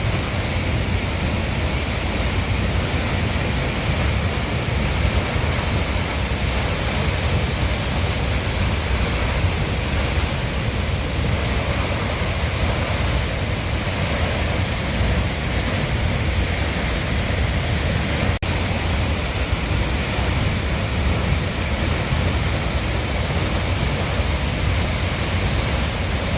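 Hardraw Force, a 100-foot single-drop waterfall, falling into its plunge pool: a steady, even noise of falling water, with one momentary break about eighteen seconds in.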